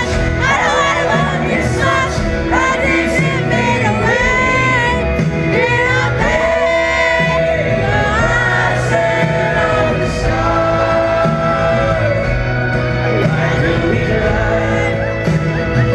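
Live band music with singing, loud and continuous, heard from the audience at a pop concert in a large hall.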